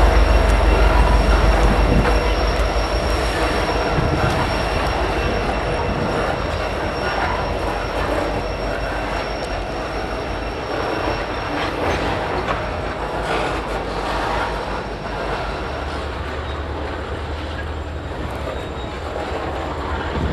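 Freight train of oil tank cars rolling past. The wheels knock over the rail joints and squeal in a thin steady tone, over a low diesel rumble that fades away.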